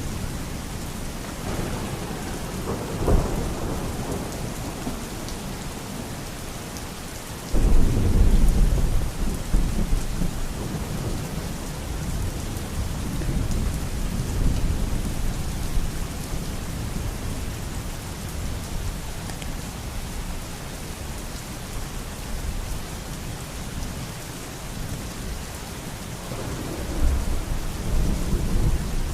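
Steady rain falling, with thunder rumbling. About seven seconds in, a sudden loud peal begins and rolls on for several seconds. Further rumbles come early on and near the end.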